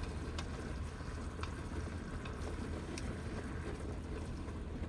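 Heavy rain drumming on the roof of a van, heard from inside: a steady low rumble with scattered sharper drop ticks.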